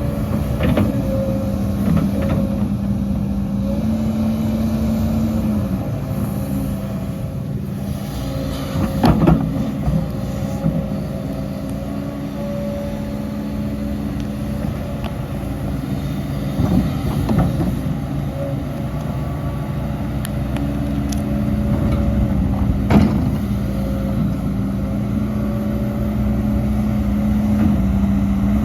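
Diesel engine of heavy earthmoving machinery running steadily, its engine note shifting slightly now and then. A few sharp metallic knocks and clanks come about a third of the way in, past halfway, and again near the end.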